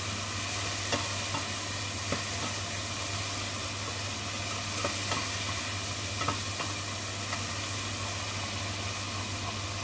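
Shrimp in garlic-herb oil sizzling steadily in a nonstick sauté pan while a spatula stirs them, scraping and now and then tapping against the pan.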